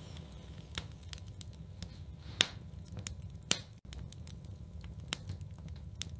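Wood fire in a fireplace crackling, with irregular sharp pops over a low steady rumble; two louder pops come about two and a half and three and a half seconds in.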